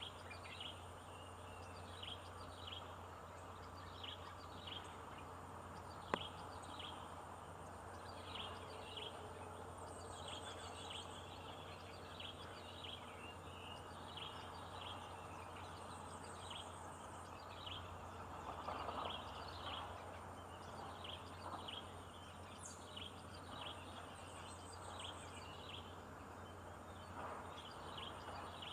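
A bird giving short, falling chirps over and over, roughly one or two a second, over a steady low outdoor hum. High insect trills come and go a few times, and there is one sharp click about six seconds in.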